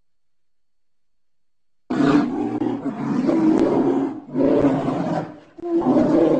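Bear vocalizing: after a silent stretch, three loud calls, the first about two seconds long starting about two seconds in, then two shorter ones.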